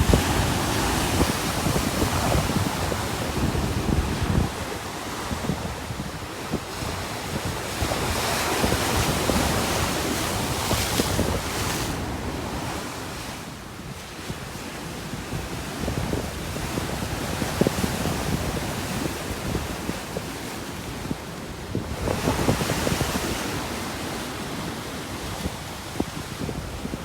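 Storm surf on the Black Sea, waves breaking and washing in, with gusting wind buffeting the phone's microphone. The surf swells and eases, rising about eight seconds in and again about twenty-two seconds in.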